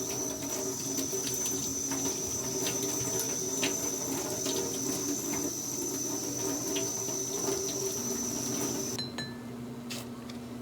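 Running water with a few small clicks, which cuts off abruptly about nine seconds in; a low steady hum begins shortly before it stops.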